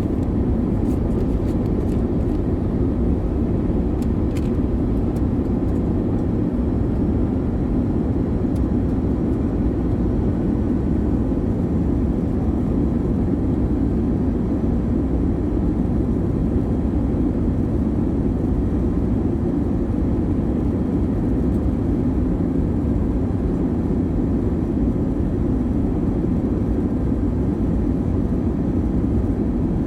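Airliner cabin noise in flight: a steady low rush of engines and airflow that stays unchanged, with a few faint clicks in the first seconds.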